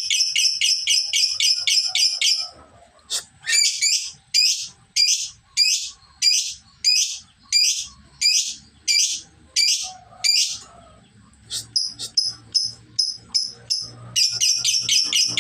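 Lovebird chattering in the 'ngekek' song: strings of short, sharp high notes, first a fast run of about eight a second, then slower notes about two a second, then a fast run again near the end. This is a lovebird still learning the ngekek, its runs only beginning to get longer.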